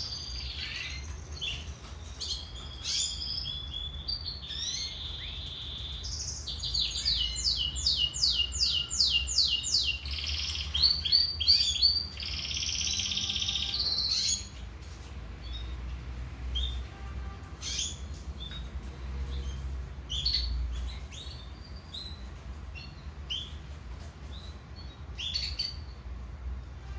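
Domestic canary singing: fast trills and runs of quickly repeated notes, loudest in the first half, thinning after about halfway to scattered short chirps.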